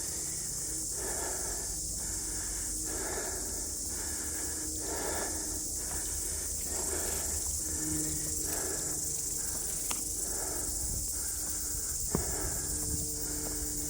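Footsteps about once a second under a steady high-pitched insect hiss, with wind rumbling on the microphone.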